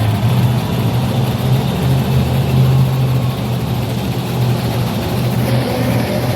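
Large engine running steadily at low revs, a deep even drone.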